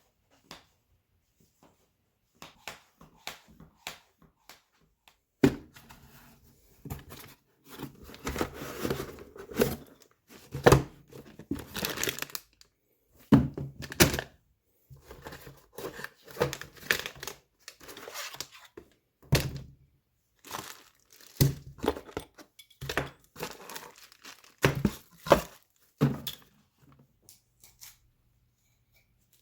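Irregular bursts of crinkling and tearing mixed with sharp knocks, starting about five seconds in and stopping near the end.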